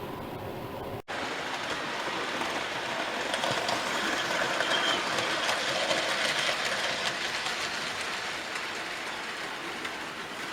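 Model train running along the layout's track: a steady rolling hum with fine rail clicks, swelling as it passes near the middle and easing off toward the end. There is a brief break in the sound about a second in.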